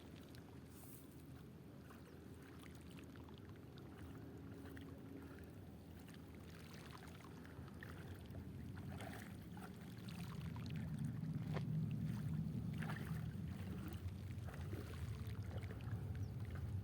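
A steady low engine drone, likely a boat motor out on the sea, growing louder about ten seconds in, with faint short splashes or clicks over it.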